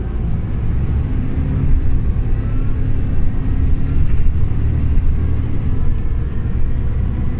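Scania OmniLink CL94UB city bus running under way: a loud, steady low engine and road rumble.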